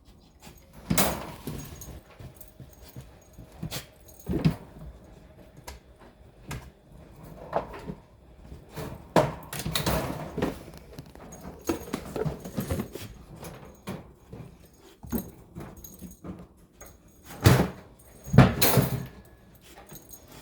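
A puppy moving about among objects that clatter and jangle: irregular knocks and rattles come and go, with the loudest bunches about a second in, near the middle, and near the end.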